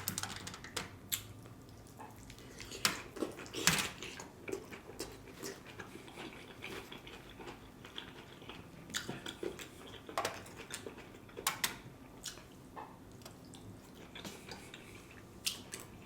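Close-miked eating of a stuffed bell pepper: irregular wet chewing and mouth sounds with scattered clicks, some of them cutlery on a plate.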